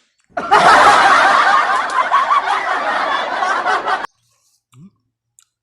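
A burst of laughter from several voices at once, lasting about four seconds and cutting off abruptly.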